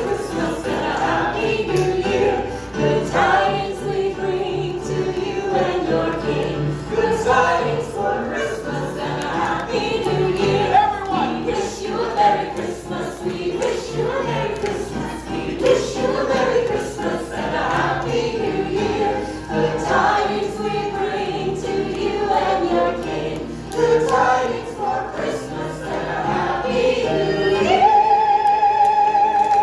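Several voices singing together in chorus with musical accompaniment, ending on a long held note near the end.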